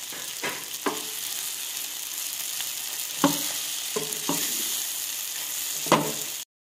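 Scrambled egg, tomato and green chilli mixture sizzling in oil in a dark pan while a wooden spatula stirs it, knocking and scraping against the pan several times. The sound cuts off suddenly near the end.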